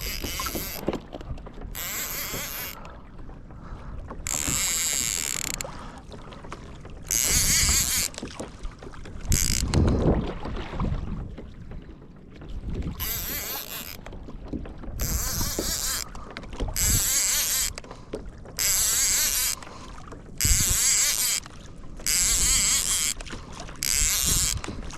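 Kayak being towed by a hooked kingfish: repeated bursts of hissing and whirring, each about a second long and starting and stopping sharply, over steady water and wind noise.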